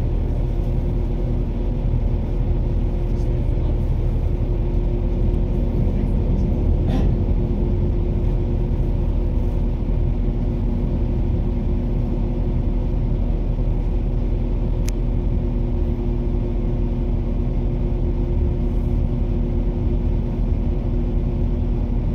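Interior of a diesel passenger train running along: a steady low rumble from the engine and wheels with a constant hum, and a couple of faint clicks.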